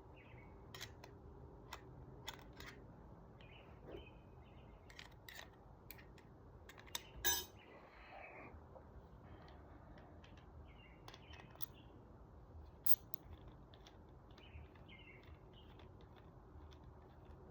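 Scattered small metal clicks and clinks of screws and sliding-door lock hardware being handled, with one louder clack about seven seconds in.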